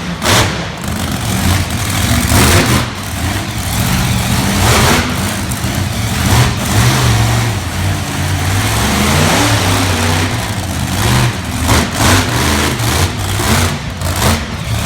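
Monster truck engine running loud, revving up and down with its pitch wavering throughout.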